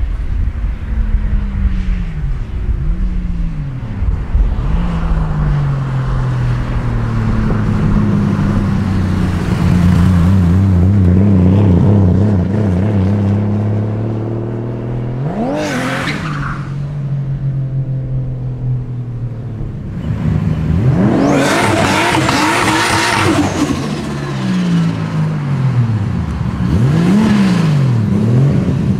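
Engine-swapped Nissan Silvia S15 revving: several quick throttle blips rising and falling, a steady drone in between, a sharp rev about 16 seconds in, and a loud, long burst of acceleration about 21 seconds in, followed by more blips near the end.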